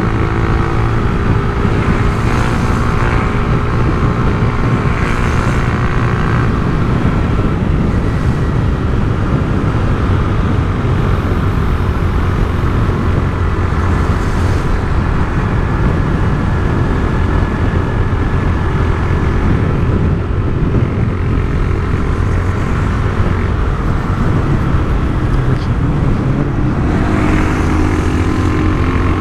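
Honda CG Titan 150's single-cylinder engine running through an aftermarket Turuna exhaust, a steady drone whose pitch shifts slightly near the start and again near the end.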